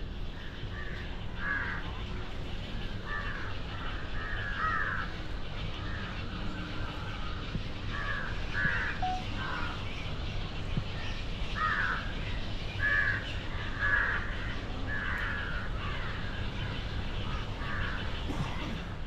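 Birds calling repeatedly, many short calls following one another and sometimes overlapping, over a steady low rumble.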